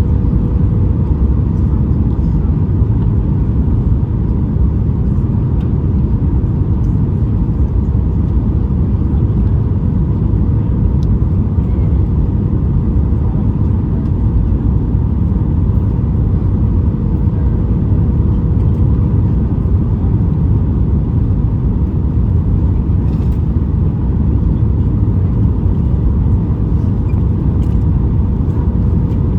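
Boeing 737 MAX 9 cabin noise in flight: a steady roar of airflow and CFM LEAP-1B engines, with a faint steady hum on top.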